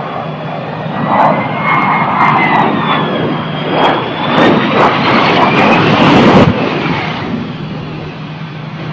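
Jet aircraft engines running with a roar and a high whine that slides up and down in pitch, growing louder to a peak about six seconds in. The highest part of the sound then cuts off suddenly, leaving a weaker roar.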